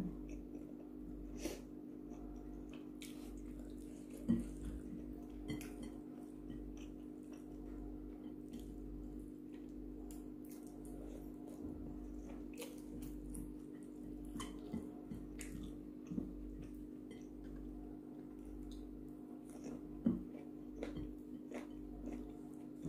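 Quiet chewing and mouth sounds of a person eating by hand, with scattered small clicks and a few louder short knocks over a steady low hum.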